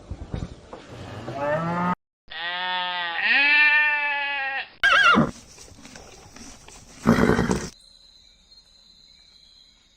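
Farm animal calls spliced one after another with sudden cuts. There is a long, pitched call lasting about two and a half seconds whose pitch rises partway through, a brief falling call, and a short noisy burst, followed by faint steady high tones.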